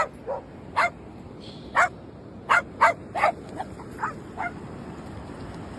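Dog barking in a string of short, sharp barks, irregularly spaced, stopping about four and a half seconds in, over a steady rushing background noise.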